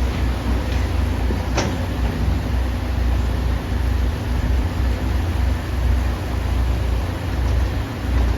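Excavator's diesel engine running steadily with a deep rumble, and a single sharp knock about a second and a half in.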